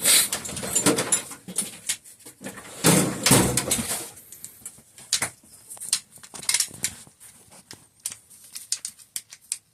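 Small parts and tools handled on a workbench: a run of clicks and rattles, loudest in a cluster about three seconds in, then thinning to scattered light clicks.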